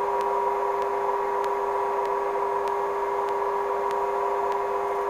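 Sikorsky lift helicopter's engines and rotor running steadily, a constant whine and hum with a faint regular ticking.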